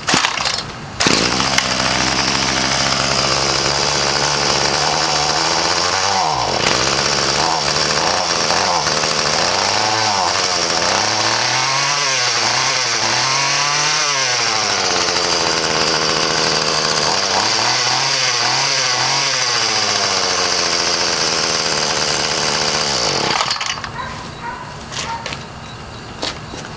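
Bolens BL100 31cc two-stroke string trimmer engine on a cold start. It catches about a second in and runs, revved up and down several times, then cuts off about 23 seconds in.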